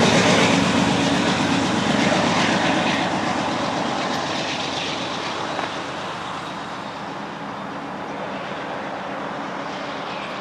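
Loaded coal train going by and moving away: the drone of a GE C44-9W diesel rear pusher and the rumble of steel wheels on rail, fading steadily.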